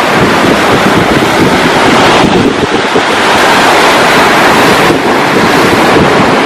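Ocean surf washing and breaking, loud and continuous, with strong wind buffeting the microphone in a low rumble.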